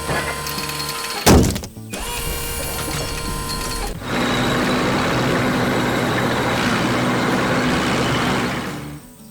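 Animated construction-vehicle soundtrack: music with machine sound effects, including a loud thump just over a second in. From about four seconds a steady, loud noisy rush runs, then fades out near the end.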